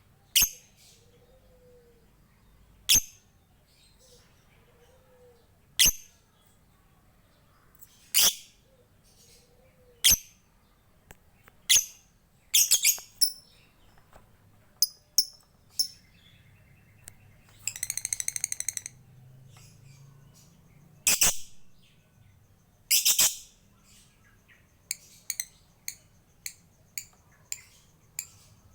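Lovebird calling: loud, sharp, high chirps every couple of seconds, a fast rattling trill (ngekek) about two-thirds of the way through, and a run of quick short ticks (ngetik) near the end.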